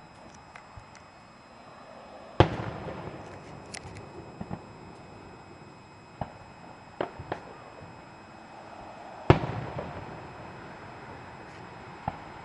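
Aerial firework shells bursting: two loud booms, one a couple of seconds in and one about nine seconds in, each trailing off in a rolling echo, with several smaller pops and cracks in between.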